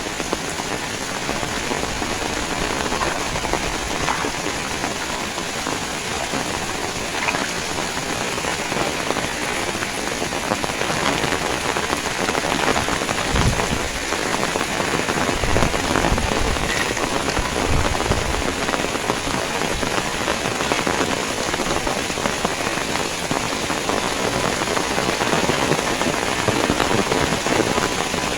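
Heavy rain falling steadily, with a few low rumbles about halfway through.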